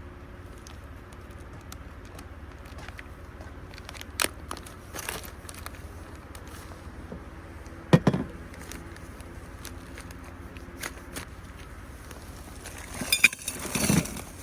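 Scattered knocks and rustles of things being handled over a steady low rumble, with the sharpest knock about eight seconds in and a cluster of rustling knocks near the end.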